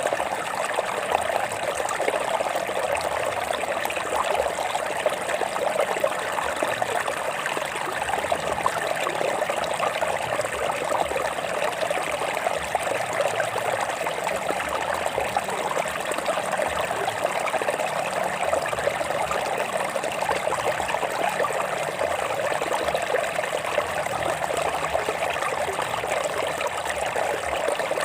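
Stream water running and trickling over rocks, a steady babbling wash without a break.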